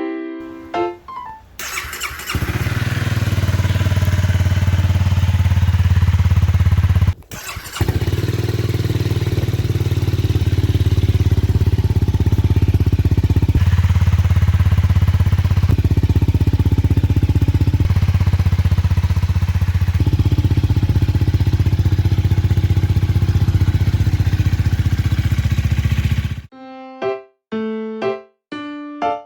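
Honda Rebel 250 motorcycle's engine idling steadily through a newly fitted Moriwaki aftermarket exhaust pipe and muffler, with a short break about seven seconds in. Piano music plays briefly at the start and again near the end.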